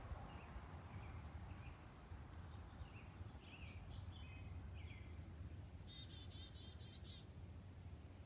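Birds chirping and calling in short notes, with a quick trill about six seconds in, over a low steady background rumble.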